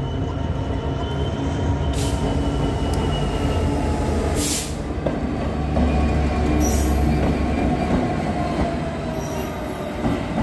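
Class 66 diesel locomotive's two-stroke V12 engine running steadily as it hauls a train of log wagons, with the wheels squealing on the rails. The low engine rumble grows stronger about six seconds in.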